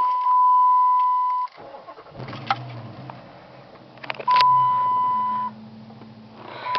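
The 2006 Dodge Charger R/T's 5.7-litre Hemi V8, fitted with aftermarket MagnaFlow exhaust, starts about two seconds in and settles to idle, heard from inside the closed cabin. A steady dashboard warning chime tone sounds at the start, then twice more while the engine runs.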